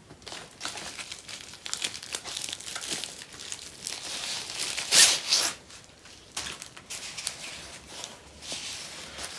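Plastic packaging of a diamond painting kit crinkling and rustling as it is unwrapped, with a louder burst about halfway through.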